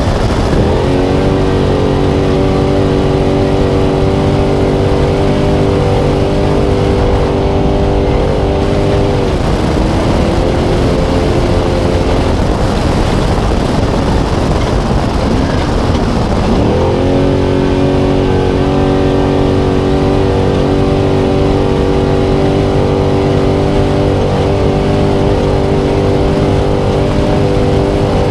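Onboard sound of a Spec Trophy Truck's V8 engine running hard at steady revs, over a constant rumble of tyres and terrain. Midway, for several seconds, the revs drop and waver as the driver lifts and shifts, then climb and hold steady again.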